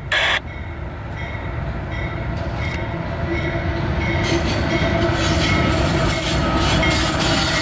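A train rolling by and growing louder, its wheels giving off a faint steady squeal over the rumble. A short burst of noise comes right at the start.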